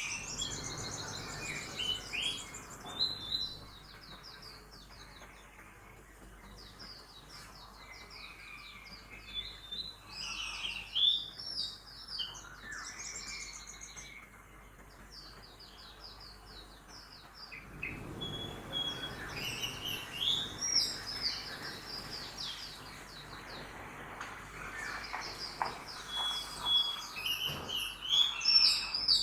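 Several birds chirping and singing at once, with many short overlapping calls and trills. Beneath them runs a low hum of street traffic that grows louder at the start and again from a little past halfway to the end.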